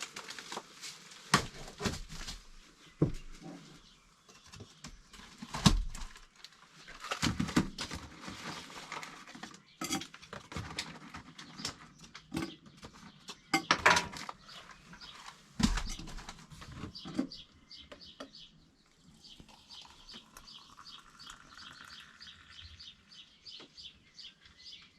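Irregular clinks and knocks of kitchen utensils and dishes while an omelette is made, followed in the last few seconds by a faint, even tapping of about three to four strokes a second.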